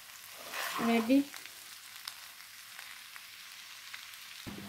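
Diced potato and shredded beef filling frying in a non-stick pan, a faint sizzle with the light scrape of a spatula stirring it. A short voice sound comes about a second in, and a steady low hum starts just before the end.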